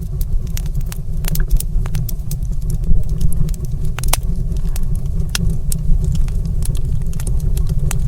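Wood fire burning in a fireplace: a steady low rumble with frequent irregular sharp crackles and pops, a few louder ones standing out about three and four seconds in.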